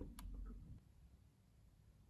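Two sharp light clicks in quick succession with a brief low rumble, then near-silent room tone.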